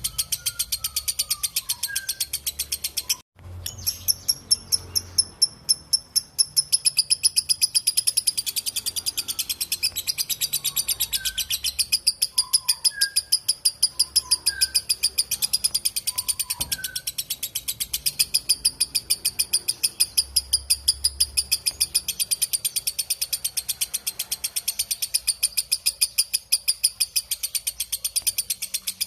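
Lovebird's long 'ngekek' chatter: a rapid, even string of shrill notes repeated several times a second, broken only by a brief pause about three seconds in. Faint short whistles from another bird sound under it.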